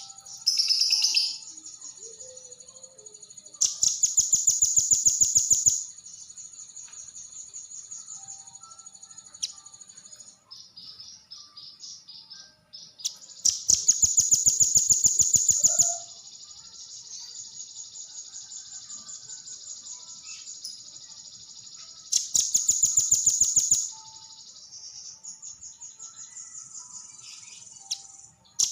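Velvet-fronted nuthatch (rambatan paruh merah) singing: three long, loud, very rapid high trills of about two seconds each, with softer fast chattering between them.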